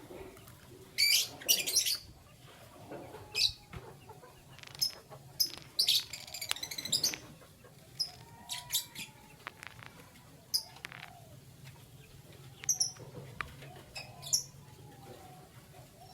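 Canaries chirping: scattered short bursts of high chirps and trills, the loudest about a second in and again around six to seven seconds, with a few fainter, lower calls between them.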